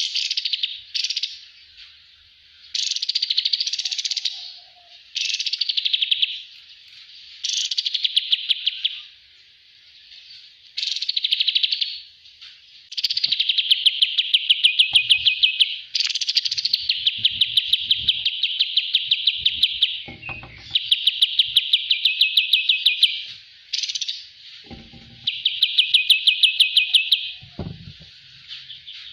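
A kapas tembak songbird singing: a string of rapid chattering trills of quick, evenly spaced notes, each phrase lasting one to three seconds with short pauses between them. A few faint low knocks come in the second half.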